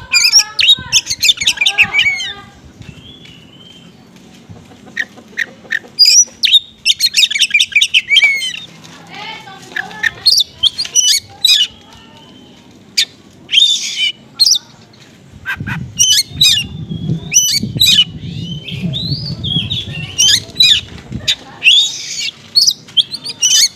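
Oriental magpie-robin lure song made of small-bird calls: rapid bursts of high chirps, trills and harsh squawky notes with short gaps between them. It is meant to set a magpie-robin that sings little into song. A low rumble runs under the song for several seconds past the middle.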